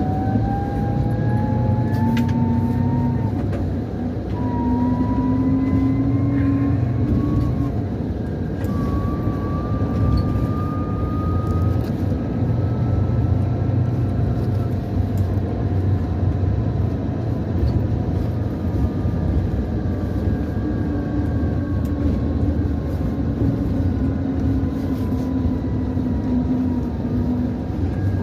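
Scania DC13 inline six-cylinder diesel of a rear-engined coach, heard from inside, pulling up through the gears of its Opticruise automated gearbox: a rising whistle over the engine rumble, broken by gear changes about four and eight seconds in. It then settles to a steady cruise with the whistle slowly falling.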